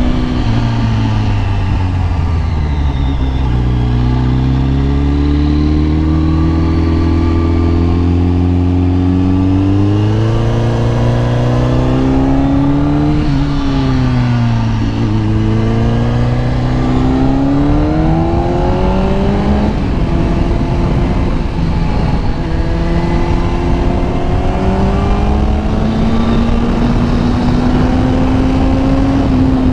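Kawasaki ZX-10R's inline-four engine under way, its pitch falling, then climbing as it pulls, dropping sharply about halfway through and climbing again, then rising slowly and steadily near the end. Steady rushing noise of the ride underneath.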